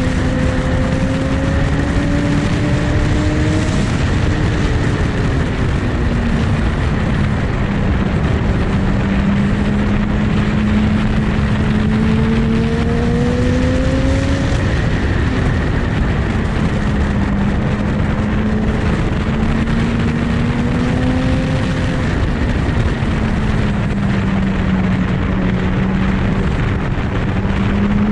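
Sport motorcycle engine running at a steady cruise, its pitch drifting slowly up and down with gentle throttle changes, under a loud steady rush of wind and road noise.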